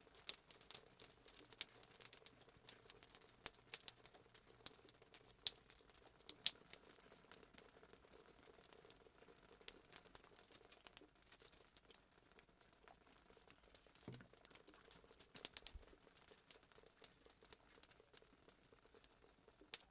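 Fireplace crackle sound effect, faint: irregular sharp pops and snaps over a soft hiss.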